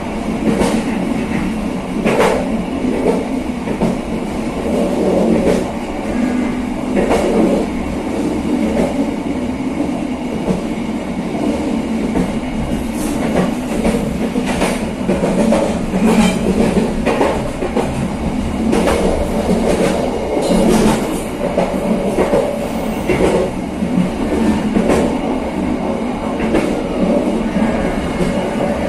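Passenger train running along the track: a steady rumble of wheels on rail, broken by irregular clacks and knocks as the wheels pass over rail joints.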